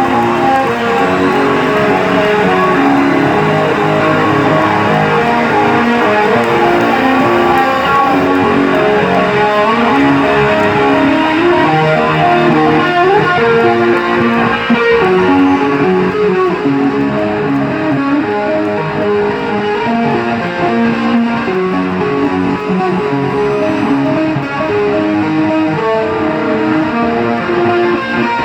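Live heavy metal band playing loudly, with electric guitar to the fore and bass guitar underneath, notes sustained and ringing.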